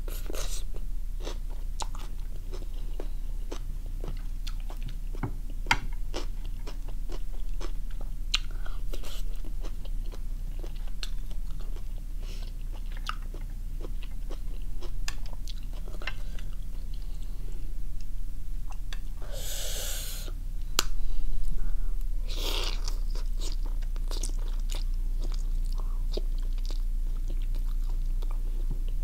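Close-up eating sounds of a person chewing and biting steamed squid and salad, with moist mouth clicks and crisp crunches. A brief louder rushing noise comes a little under twenty seconds in, and another shortly after.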